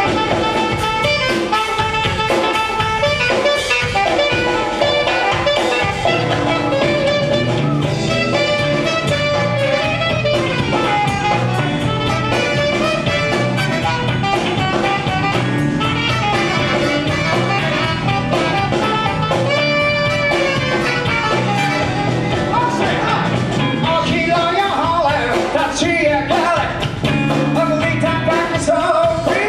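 A live band playing with a steady drum beat.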